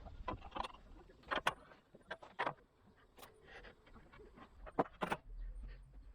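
Irregular knocks and clinks of metal parts and hand tools being handled and set down, about seven sharp strikes over a faint low hum.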